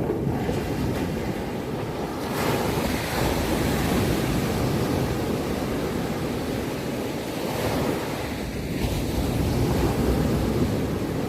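Ocean surf: waves breaking and washing in as a steady rushing noise, swelling with a fresh wave about two and a half seconds in and again near the end.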